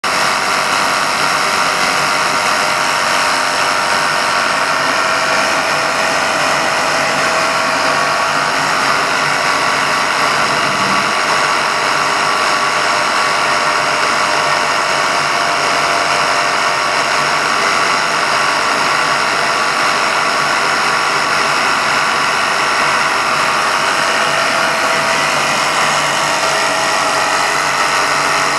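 Engine newly fitted with a supercharger, running steadily on its first start-up, with no change in speed.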